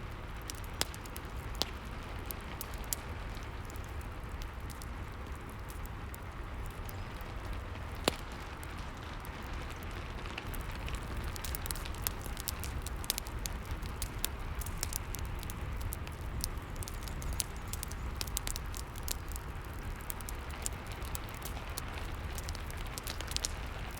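Rain and fireplace ambience: a steady hiss of rainfall under a low rumble, with many short crackles and pops from a wood fire, thickening about halfway through.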